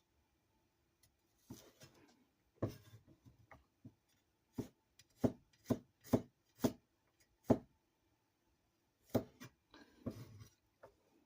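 Kitchen knife slicing garlic cloves on a cutting board: a series of sharp, irregularly spaced knocks, with a pause of more than a second about two-thirds of the way through.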